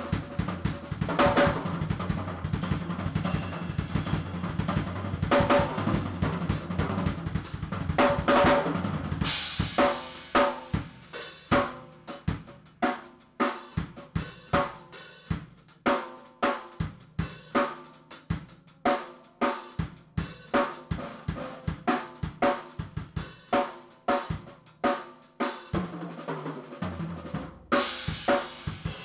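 Drum kit played in a fast gospel-style shed: snare, bass drum, hi-hat and cymbals. Low sustained notes sit under the drums for the first third, after which the drums play alone in quick, separate strokes, and a cymbal crash comes near the end.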